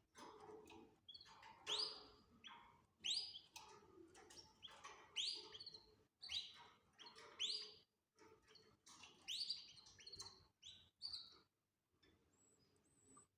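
Canaries chirping: a run of short, sharply rising calls about one a second, with softer chatter in between, falling quiet shortly before the end.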